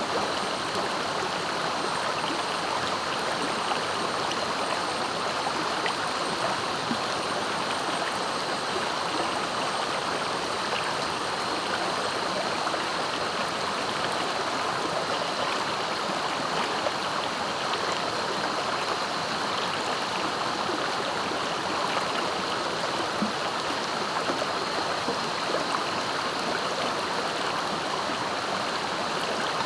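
Clear, swift river flowing, a steady rushing of water.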